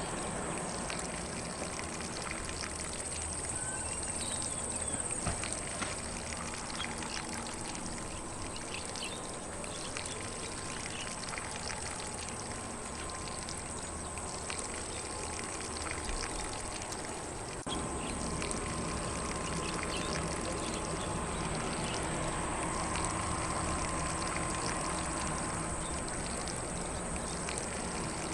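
Lawn sprinkler spraying water steadily across grass, an even hiss and patter of falling water, with faint birds in the background.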